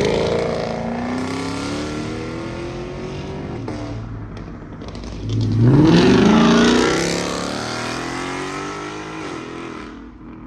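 Car engines accelerating hard, twice. The first pull is already peaking at the start and fades with a falling pitch. About five seconds in, a second car revs up sharply, is loudest a second or two later, then falls in pitch and fades away.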